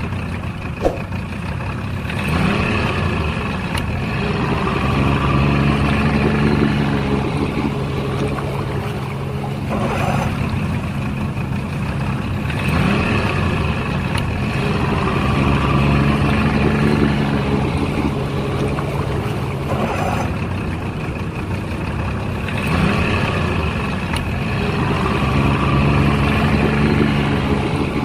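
Vehicle engine running, the same stretch of sound repeating about every ten seconds as a loop, with a short rise in pitch a few seconds into each cycle.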